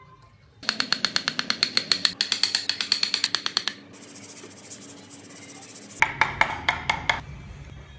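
Rapid, even tapping of a carving tool on wood, about eight strikes a second for three seconds, then a second shorter run of taps about six seconds in.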